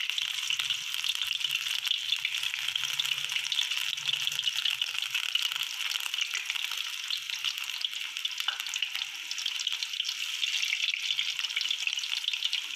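Besan-battered potato slices deep-frying in hot oil in a pan, a steady crackling sizzle.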